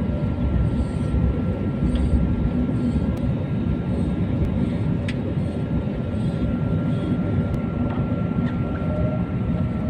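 Jet airliner's engines heard from inside the passenger cabin: a steady low rumble with a steady high whine, and a few light clicks.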